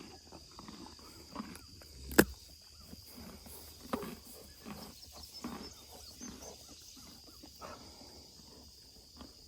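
Donkeys eating feed at close range: irregular crunching and munching, with a sharp knock about two seconds in. A steady high insect drone runs underneath.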